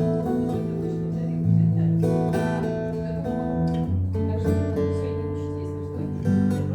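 Slow instrumental music led by acoustic guitar, held chords changing every two seconds or so.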